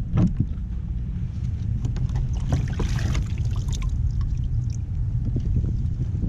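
Steady wind rumble on the microphone and water around a kayak, with scattered light clicks and knocks and a short rushing splash about three seconds in.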